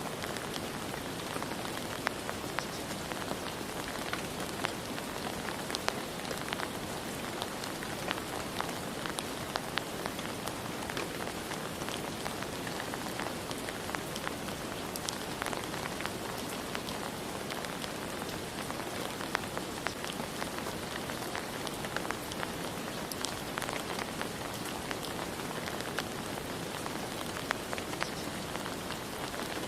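Steady rain falling: an even, dense hiss with frequent sharp ticks of individual drops hitting a surface.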